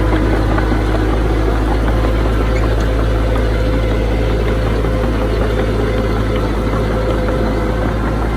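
Diesel engine of a heavy earthmoving machine running steadily at an even speed.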